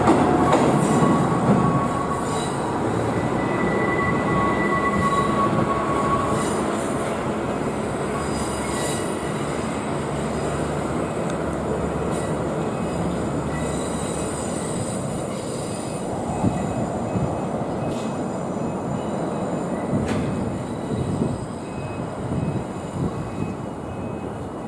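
Kiya 97 series track-maintenance diesel train running along the line, with the steady rumble of wheels on rail. Thin high wheel squeals sound during roughly the first six seconds.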